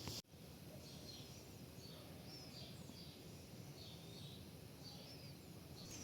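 Faint bird chirps, short repeated sweeping calls, over a low steady background noise.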